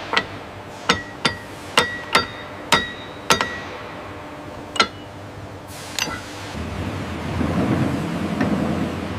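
Hammer blows on steel: about eight sharp, ringing metal strikes at an uneven pace over the first five seconds, followed by a low rumble that builds from about six and a half seconds in.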